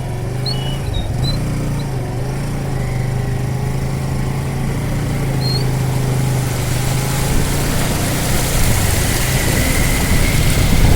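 A motor engine drones steadily at an even pitch, with a rushing noise building up over the last few seconds.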